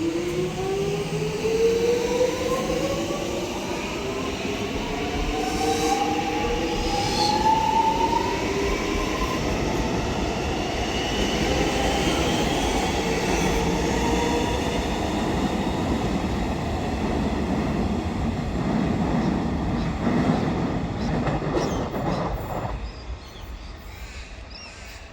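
Melbourne suburban electric train pulling out of the station: its traction motors whine, rising in pitch as it gathers speed over the rumble of wheels on rail, and the sound fades away near the end.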